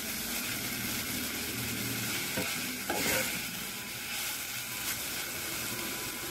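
Sliced mushrooms with red onion and curry leaves frying with a steady sizzle in a pan as they are stirred with a spoon. There are a few brief knocks and scrapes of the spoon against the pan about two and a half to three seconds in.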